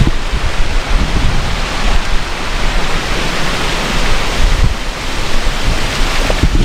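Waterfall: a loud, steady rush of falling water, with irregular low rumbling underneath.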